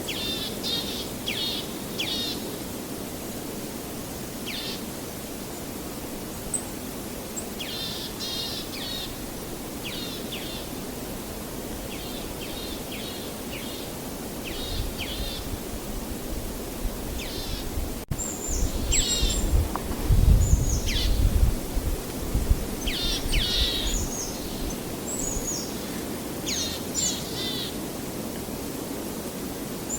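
Small birds chirping in short, repeated trilled phrases over a steady low hiss of outdoor background, with a deeper rumble swelling for a few seconds about two-thirds of the way through.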